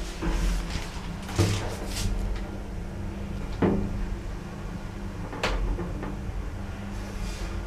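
A passenger lift running: a steady low hum with a few sharp clunks and knocks from its doors and machinery, the loudest about three and a half seconds in.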